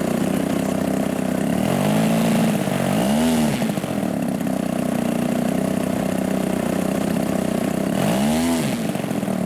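Giant-scale RC warbird's gas engine idling steadily, blipped up and back down three times: briefly about two seconds in, again a second later, and once more near the end.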